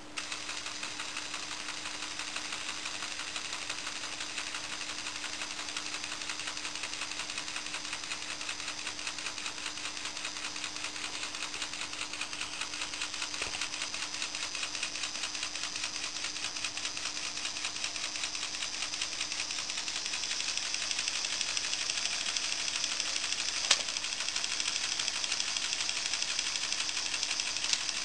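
Lego Technic 9V electric motor running a plastic gear train, a steady rapid clatter over a low hum. It starts abruptly and grows gradually louder, with one sharp click near the end.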